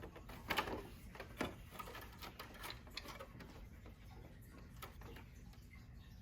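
Faint, scattered clicks and taps of cable connectors being handled and pulled from a printer's main board, the loudest about half a second in and again about a second and a half in.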